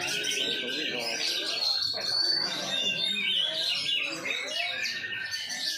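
Songbird chirping and singing in quick, overlapping high phrases with short rising and falling notes.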